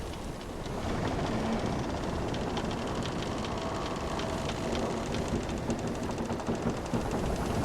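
Wooden sailing ship's timbers creaking in long drawn-out creaks, with scattered light ticks, over a steady wash of ocean waves.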